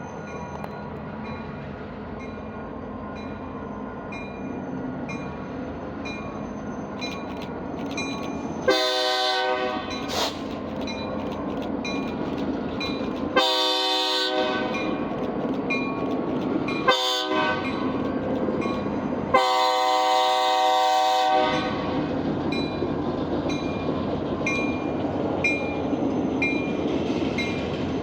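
Diesel freight locomotive's air horn sounding two long blasts, a short one and a final long one, the grade-crossing signal. The train's rumble grows louder as it approaches.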